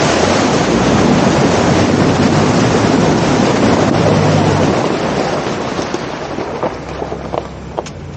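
Loud steady rushing noise with a low hum underneath, easing off after about five seconds, then a few short knocks near the end.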